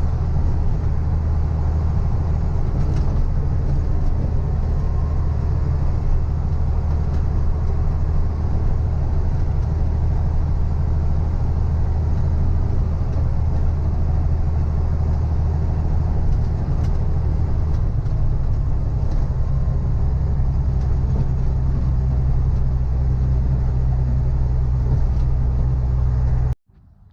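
Heavy diesel engine running steadily, its note dropping slightly about two-thirds of the way through, then cutting off abruptly near the end.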